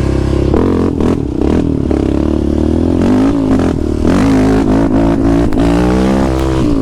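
Quad (ATV) engines at hard throttle in a first-gear launch, the engine note climbing and dropping several times as the bikes accelerate.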